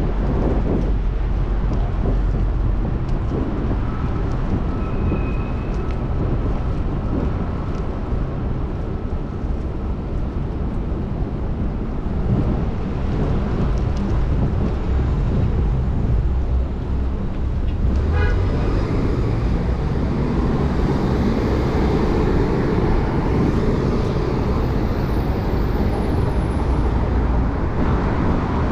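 Steady city street traffic noise, with low wind rumble on the microphone of a moving bicycle.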